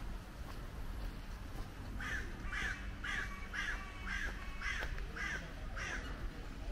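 A bird gives a run of about eight calls, evenly spaced at roughly two a second, starting about two seconds in, over a steady low rumble.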